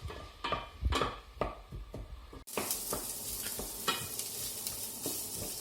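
Onion frying in hot oil in a pot, stirred with a utensil in a series of separate scraping strokes; about halfway through the sound changes suddenly to a steady sizzle with only a few light strokes.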